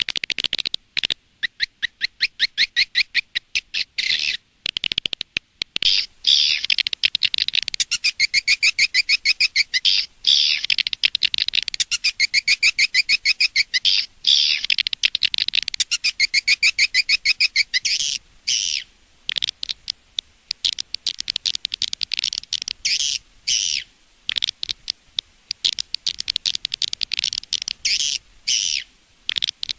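Recorded swiftlet lure call: fast trains of high, chittering swiftlet chirps repeating in bursts. It starts as rapid separate pulses, becomes a dense continuous twitter for a stretch in the middle, then breaks into shorter chirp bursts with brief gaps.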